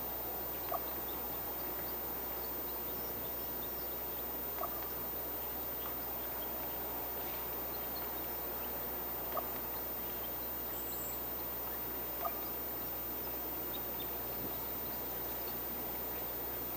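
Short, single bird calls, four of them spaced several seconds apart, with faint high ticks between, over a steady outdoor hiss.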